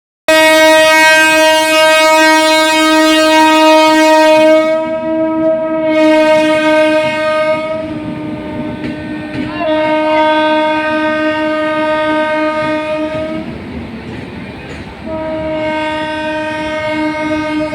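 Train horn sounding one long, loud, single-pitched blast that is held for about thirteen seconds, breaks off briefly, then sounds again.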